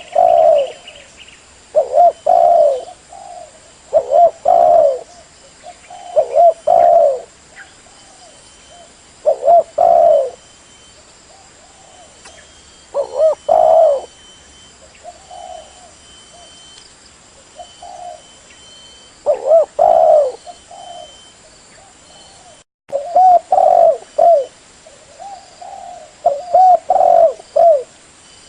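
Spotted dove (terkukur) cooing: short phrases of a few low coos, repeated every two to three seconds, with a few longer pauses between. This is the kind of call played as a lure to catch doves.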